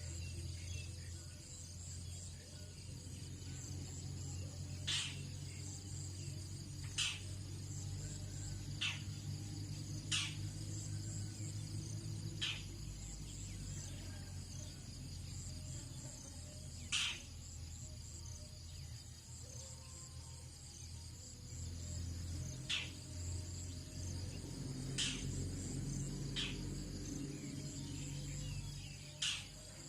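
Crickets and other insects trilling steadily in a high, finely pulsing chorus. A sharp click cuts through about every two seconds, with a steady low hum underneath.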